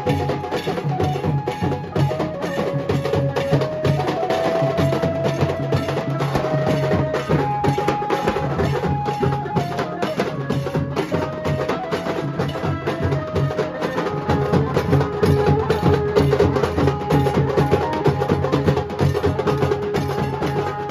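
Nasik dhol band music: dhol drums beat fast and densely, with a melody of held, stepping notes played over them.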